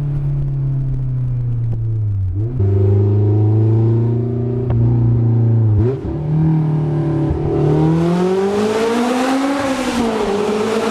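Honda S2000's four-cylinder engine through an open header, loud and steady under way, with two brief dips in pitch as the gears change, then revving up and easing off near the end.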